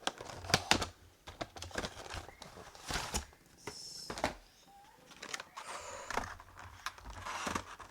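Irregular clicks, taps and light scrapes of a boxed model airliner and its packaging being handled and opened, with a brief scraping sound about four seconds in.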